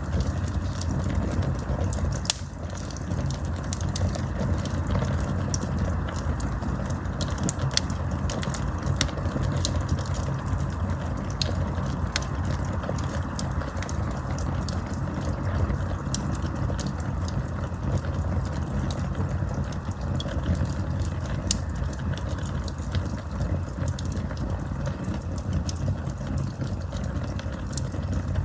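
Wood campfire burning, with frequent sharp crackles and pops over a steady low rumble; one louder pop about two seconds in.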